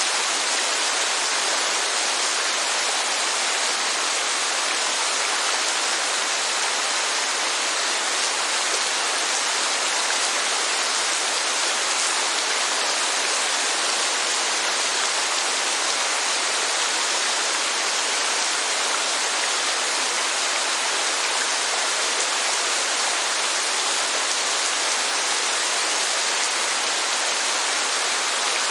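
Steady rainfall with falling water: a dense, even hiss, strongest in the higher pitches, with no thunder, voices or music.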